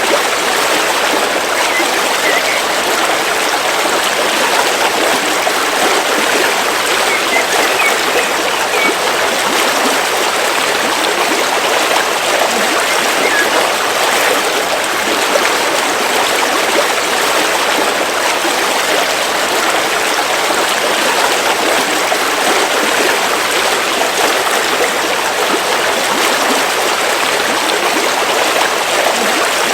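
River water flowing steadily, a continuous even rush with no let-up.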